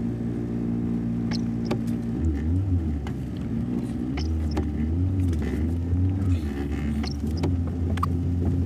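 Car engine heard from inside the cabin while driving slowly on a muddy dirt road, its hum steady at first, then rising and falling in pitch from about two seconds in. Scattered taps of rain hit the roof and windshield throughout.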